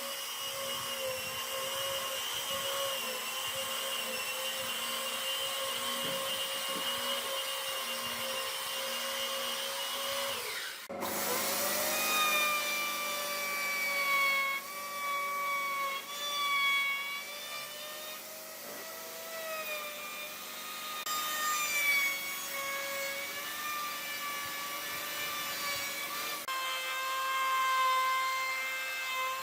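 Electric power tool working wood: a steady motor whine that cuts off abruptly about eleven seconds in, followed by a whine whose pitch rises and falls as the load changes.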